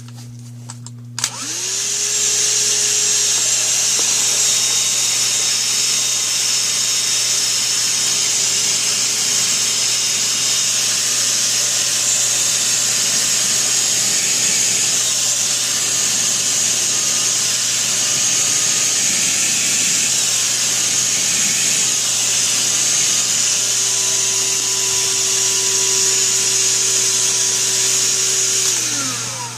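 Black & Decker PD1200B 12V cordless handheld vacuum switched on with a click about a second in, its motor spinning up quickly and then running steadily with a high whine, on a freshly replaced NiCd battery pack. It is switched off near the end and winds down.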